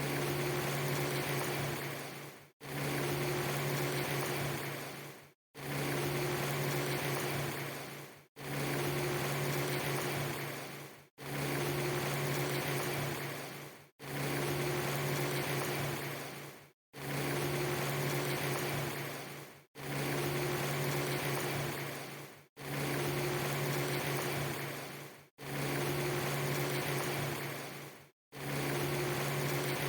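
Steady rushing noise with a low hum under it, cut into a short loop: a segment just under three seconds long repeats about ten times, each one fading out and dropping to a brief silence before the next starts.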